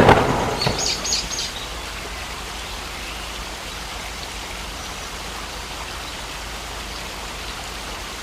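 Steady heavy rain, with a sudden loud crackling burst at the very start that dies away over about a second and a half.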